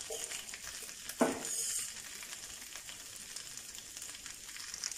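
Grated coconut, yam, raw banana and chana dal frying in a nonstick pan with a steady sizzle. A single short knock comes about a second in, followed by a brief louder hiss.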